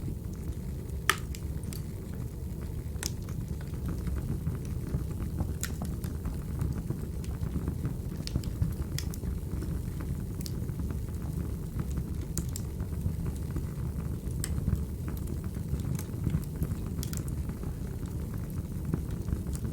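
Wood fire crackling: a steady low rumble of burning logs with irregular sharp pops and snaps every second or two.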